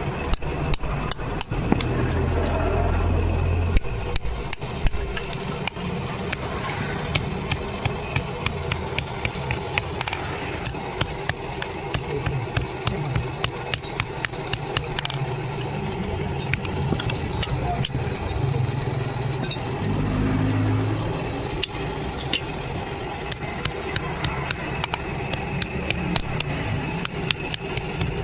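Hand hammer striking iron on an anvil over and over in quick succession, as the iron strip is forged into a sickle blade, over a low engine rumble.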